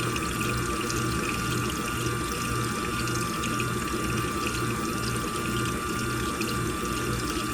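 Washing machine running: water sloshing and splashing in the drum over a steady motor hum with a low, regular pulse.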